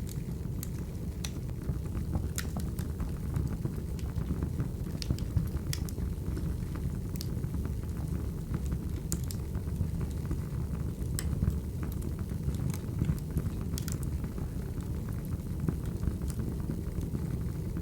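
Wood fire crackling: a steady low rumble of flames with scattered sharp pops and snaps.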